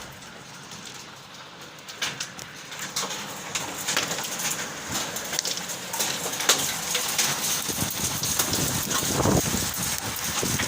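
Heavy downpour with hail: a steady hiss of rain with many sharp clicks and taps of hailstones striking surfaces, growing louder about two seconds in.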